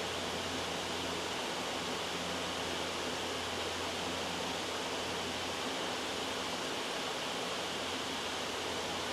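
Loud, steady white noise: an even hiss with no change in level.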